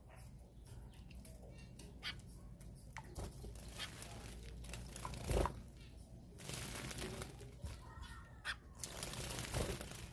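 Small cage birds bathing: water splashing and wings fluttering in bursts, with scattered light ticks and a few short chirps.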